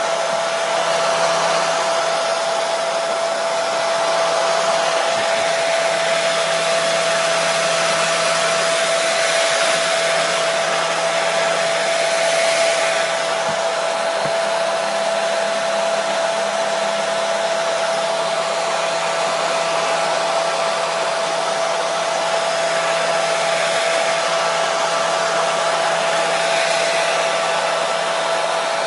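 Electric hair dryer running continuously: a steady rushing of air with a constant motor whine, unchanging in level.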